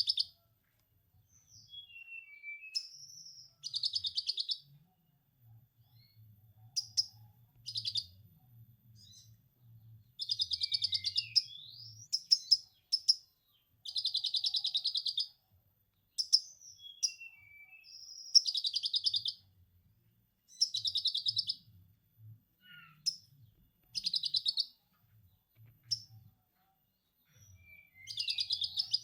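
Konin (kolibri ninja sunbird) singing lovebird-style ngekek: rapid chattering trills about a second long, repeated every two seconds or so, between short high chirps and a few falling whistled notes.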